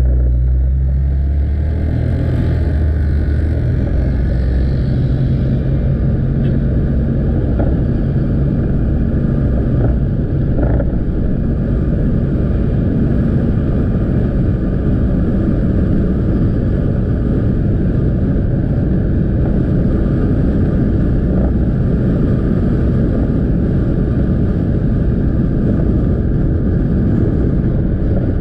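Motorcycle engine running on the move, with road and wind noise at the camera. A strong engine note in the first couple of seconds settles into a steady low rumble.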